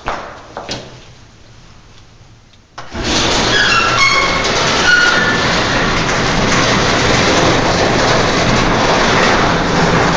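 A few light clicks, then about three seconds in an overhead garage door starts rolling open: a steady loud rumble and rattle, with short squeals for a couple of seconds after it starts. The racket comes from the door's rollers running in their tracks, which are what make the noise.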